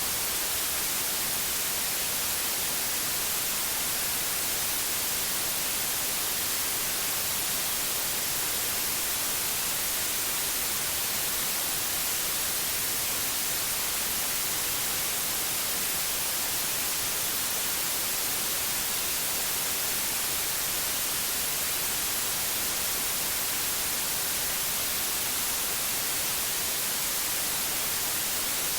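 Steady white noise: an even, unbroken hiss across the whole range, strongest in the highs.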